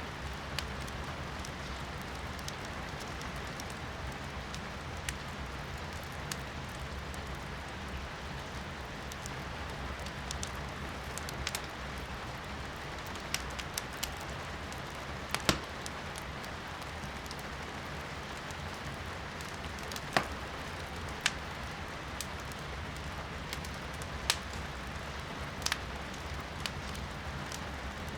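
Wood fire crackling in a fireplace, with scattered sharp pops every few seconds, the loudest about fifteen and twenty seconds in, over a steady hiss of rain heard from indoors.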